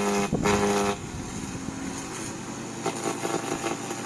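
Garden branch chipper running while it shreds branches into mulch: a strong machine tone for about the first second, then the tone drops away and the level falls, leaving a quieter, rougher whir with chipping noise.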